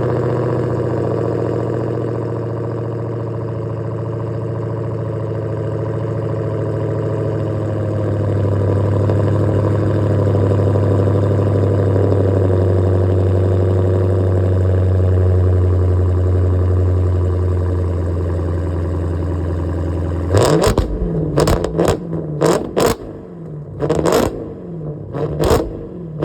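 Dodge Challenger SRT Demon 170's supercharged 6.2-litre HEMI V8 running at a fast cold-start idle, steady for about twenty seconds. Near the end it is blipped in a string of about eight short, sharp revs.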